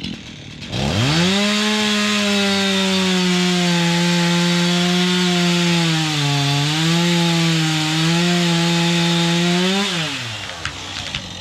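Stihl MS 251 C two-stroke chainsaw revved to full throttle and cutting into the tree trunk. The engine holds a steady high pitch, bogs briefly about six seconds in as the chain loads in the cut, and drops back toward idle near the end when the throttle is released.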